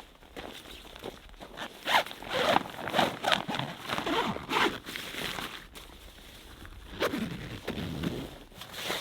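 A zipper being pulled in a run of short rasping strokes, then a second run a few seconds later.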